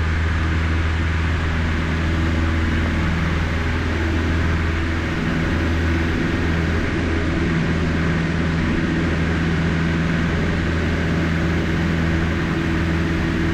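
Cessna 152's Lycoming O-235 four-cylinder engine and propeller running at full power through the takeoff and initial climb, a steady drone.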